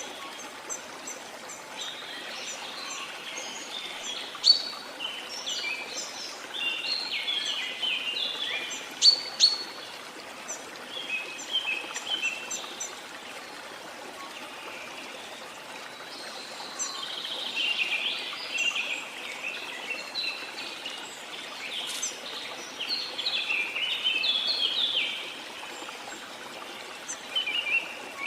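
Rain forest birds singing in spells of quick chirping phrases over the steady rush of a flowing stream.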